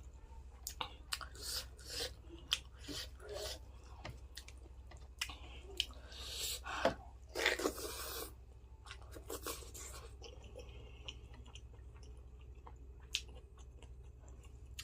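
A person chewing food close to the microphone, with frequent sharp crunches and wet mouth clicks over the first eight seconds or so, then quieter chewing. A steady low hum runs underneath.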